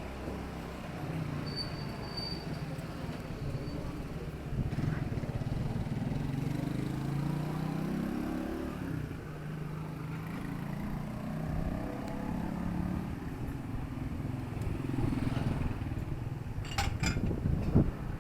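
Town street ambience: a motor vehicle passes, its engine pitch rising and then falling over several seconds, over a steady traffic hum. A few sharp knocks sound near the end.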